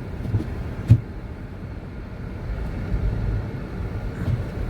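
Pontiac Vibe driving through deep snow, its engine and tyres a steady low rumble, with one sharp knock about a second in.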